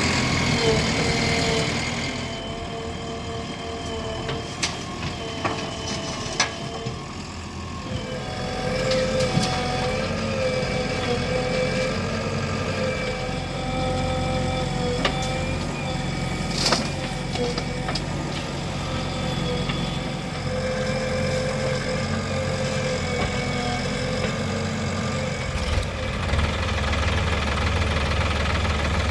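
Diesel engines of a backhoe loader and tractors running steadily, with a wavering whine and a few sharp clanks. A deeper, louder engine note comes in near the end.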